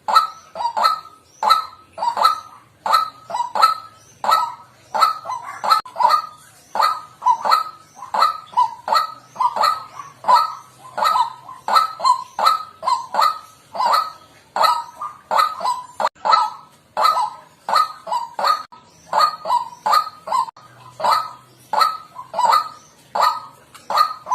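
White-breasted waterhen calling: a steady, unbroken run of short, repeated croaking notes, about two to three a second and often in pairs. This is the bird's kru-ak call, used as a lure call.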